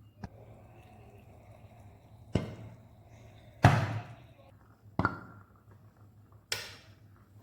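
Hydrogen gas igniting at a candle flame with sharp little pops, four of them about a second and a half apart, the second of these the loudest: the characteristic pop test for hydrogen given off by zinc reacting with hydrochloric acid.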